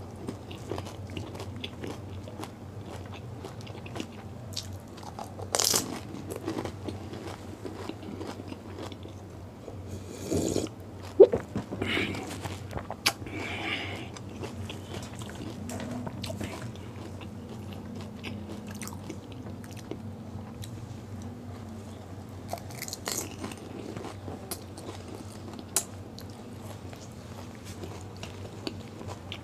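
A person chewing pani puri: the crisp fried puri shells crunching between the teeth with wet chewing, broken by a handful of louder crunches spread through.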